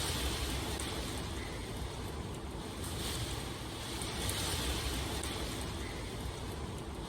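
Steady heavy rain with a low rumble underneath, the hiss swelling and easing about every three to four seconds.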